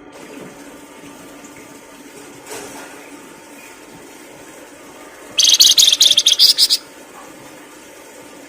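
A songbird's loud, rapid trill of high repeated notes, lasting about a second and a half a little past halfway, over a steady rushing water-like background.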